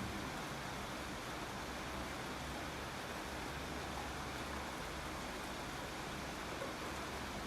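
Steady rain falling, an even hiss with a few faint drops standing out now and then.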